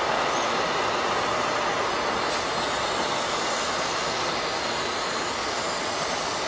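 Passenger train coaches rolling past, a steady rush of wheels on rails that slowly fades.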